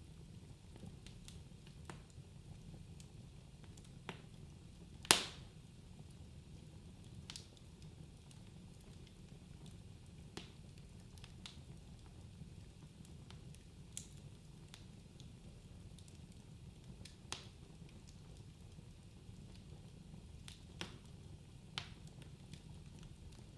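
Wood fire burning in a fireplace: a low steady rumble of the flames with scattered sharp crackles and pops, one much louder pop about five seconds in.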